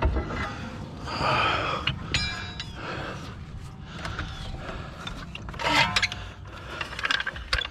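Hand tools and metal suspension parts clinking and scraping during strut work under a car, with a brief squeak about two seconds in and a few sharp knocks later.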